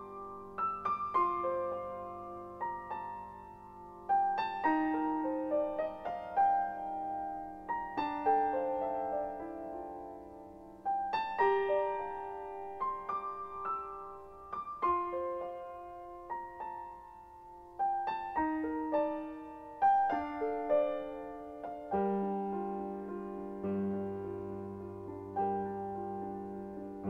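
Slow, gentle piano music: single notes and chords struck and left to ring, with new phrases every second or two.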